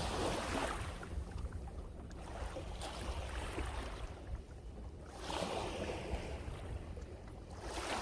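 Sea waves washing onto the shore, with two swells of surf hiss: one at the start and one about five seconds in. A low rumble of wind on the microphone runs underneath.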